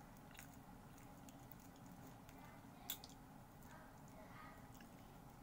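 Faint chewing and mouth sounds of a person eating, with scattered small clicks and one sharper click about three seconds in.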